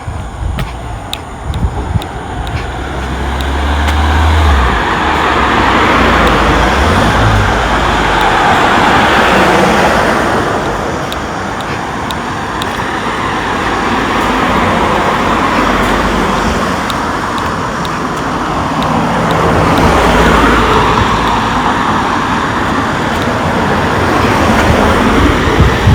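Road traffic: vehicles passing close by, their tyre and engine noise swelling and fading away twice, with a low engine hum in the first few seconds.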